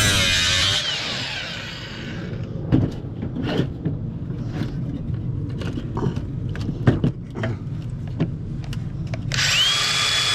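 Power drill running, then winding down within the first second; a series of sharp knocks and clicks follows, and near the end the drill spins up again with a rising whine that levels off.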